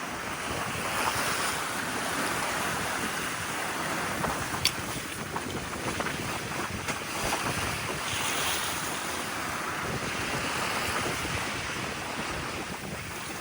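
Wind buffeting the microphone over the steady wash of sea water around a sailboat under way, with one short click about four and a half seconds in.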